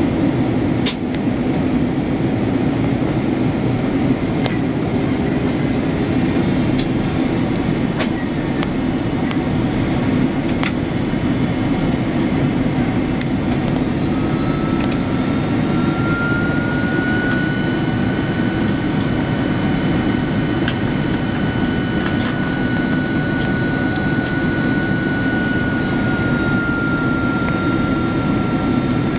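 Steady in-flight cabin noise of a Boeing 777-300ER: engine and airflow rumble, with occasional faint ticks. About halfway through, a thin high whine comes in and holds to the end.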